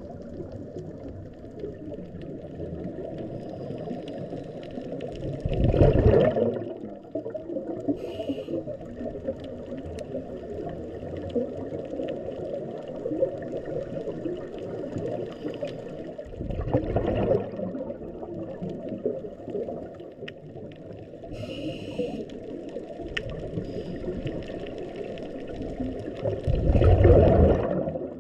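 Underwater sound on a scuba dive: a steady low wash of water noise, broken three times, about ten seconds apart, by a loud rush of a diver's exhaled regulator bubbles.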